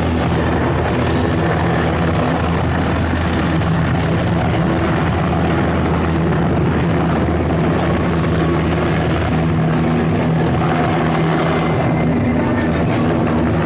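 Helicopter in flight, its rotor and engine running steadily and loudly with an even low beat.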